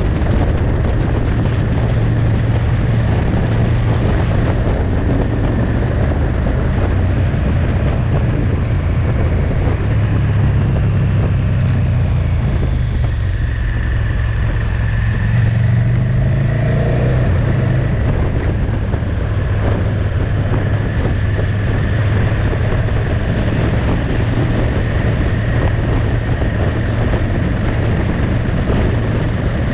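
Motorcycle engine running at road speed with wind rush. About halfway through it eases off, then its pitch climbs again as it picks back up.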